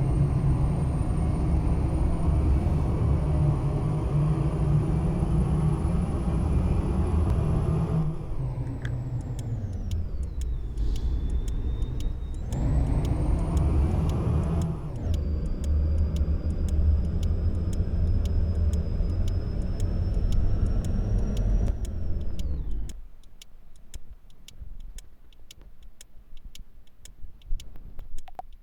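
Ashok Leyland truck's diesel engine running with a high whine, its revs dropping about eight seconds in, picking up again, then falling away and stopping about 23 seconds in. A regular light ticking runs through the second half and is left on its own after the engine stops.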